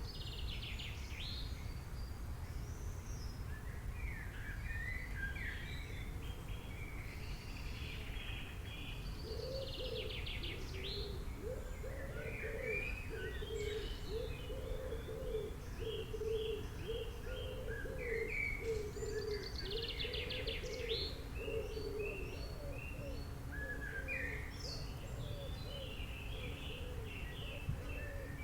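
Several wild birds chirping and singing, with quick high calls and trills throughout. From about a third of the way in to about three quarters through, a much lower bird call repeats rapidly. A steady low background rumble runs underneath.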